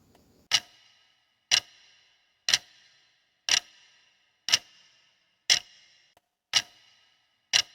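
Quiz countdown timer ticking: a clock-tick sound effect, one sharp tick each second, each with a short ringing tail.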